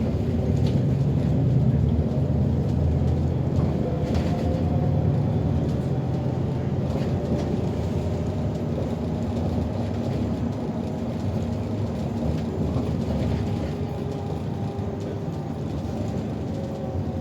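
City bus driving, heard from inside the cabin: a steady low rumble of engine and road, with a faint drivetrain whine that slowly shifts in pitch.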